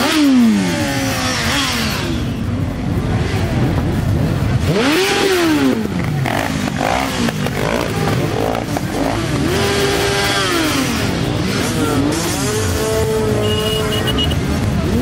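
A stream of motorcycles riding past, several engines at once, each one's note rising and falling as it revs and goes by.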